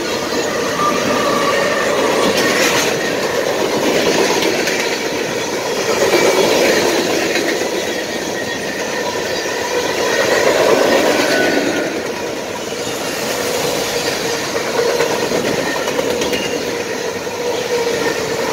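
Freight train rolling past close by: a steady din of steel wheels on the rails that swells and eases, with clickety-clack over the rail joints and faint thin wheel squeal. Mid-train diesel locomotives pass at the start, followed by the freight cars.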